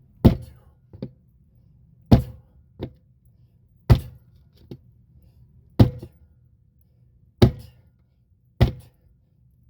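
Six heavy strikes on a rusty tractor tire as its bead is broken down by hand, about one every two seconds, each with a short metallic ring and followed by a lighter knock.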